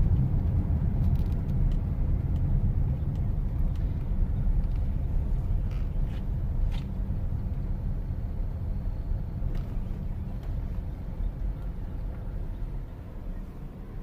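A car on the move: a steady low rumble of engine and road noise that fades gradually over the stretch, with a few faint ticks.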